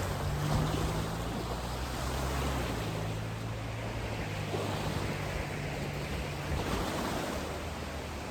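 Wind blowing over the microphone at the lakeside: a steady, noisy rush with low rumble.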